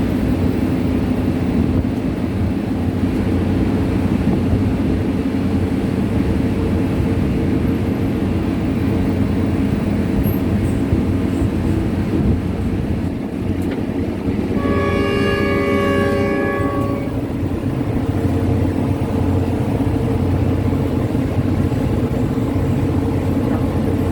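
Passenger train running with a steady low rumble. About fifteen seconds in, the train horn sounds one blast of about two and a half seconds.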